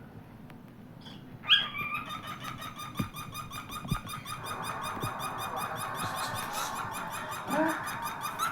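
Cockatiel singing: a fast, steady run of short repeated warbling notes that starts suddenly about a second and a half in and keeps going. A few faint taps fall among the notes.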